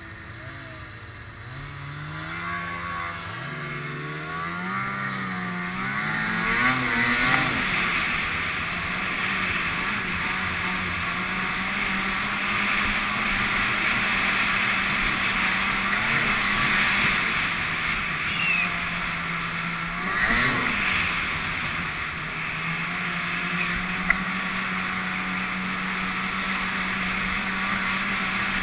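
Snowmobile engine revving up, its pitch climbing over the first several seconds, then running steadily at high speed, with a brief rev up and back down about twenty seconds in.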